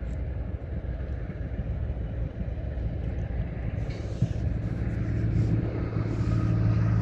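Low steady rumble of a motor vehicle, with an engine hum that grows louder from about halfway through.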